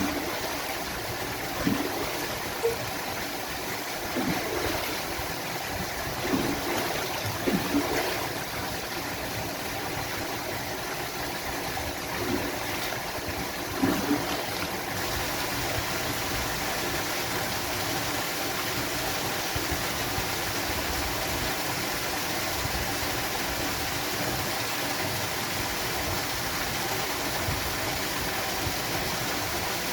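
Steady rush of a waterfall's running water, with a few short splashy plops in the first half.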